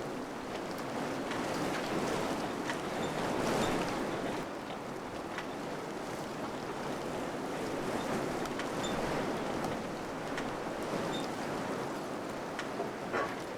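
Wind blowing steadily, swelling a little about three or four seconds in, with faint scattered ticks and a short rattle near the end.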